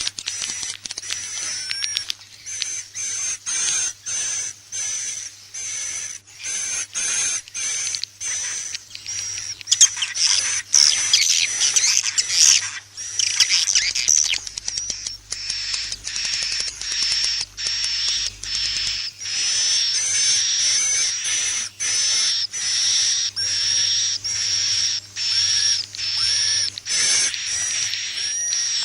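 Swiftlet lure-call recording: dense, high-pitched twittering chirps of edible-nest swiftlets, played as a call to draw the birds into a swiftlet house. The chirps come in short bursts a few times a second, busiest and loudest around the middle.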